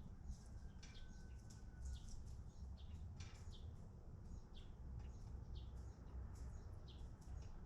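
Many short, high chirps of small birds, coming thick and fast and overlapping, over a faint steady low rumble.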